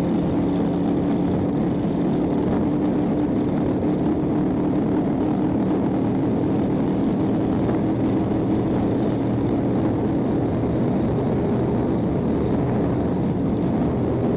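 A police patrol car at pursuit speed: a steady engine drone with road and wind noise, its low hum easing about ten seconds in.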